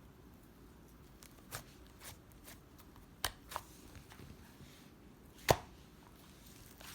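Scattered sharp taps and clicks over a quiet room background, the loudest about five and a half seconds in.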